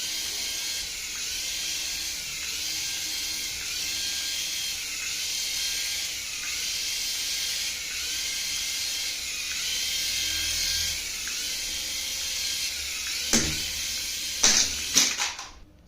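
Small electric motor of an RC toy whirring steadily at a high pitch, with a few sharp clicks near the end before it cuts off.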